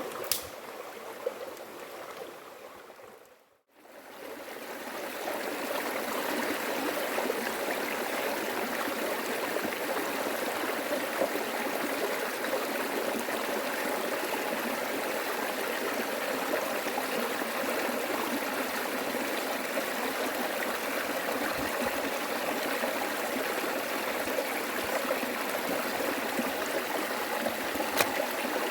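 Steady rushing of running water, like a flowing stream. It cuts out about three seconds in and fades back up a couple of seconds later.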